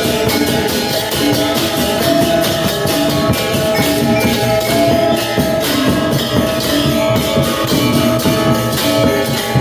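Balinese gamelan gong ensemble playing: bronze metallophones strike a fast, dense run of ringing notes over steady drumming.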